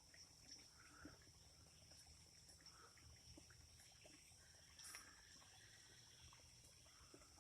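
Near silence outdoors: a faint, steady high-pitched insect chorus, with a few faint clicks.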